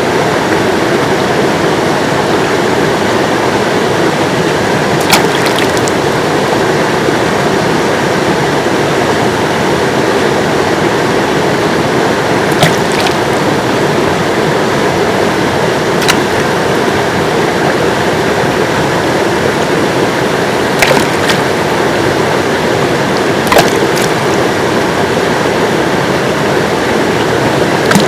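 River water rushing steadily, with a handful of brief sharp clicks or splashes standing out now and then.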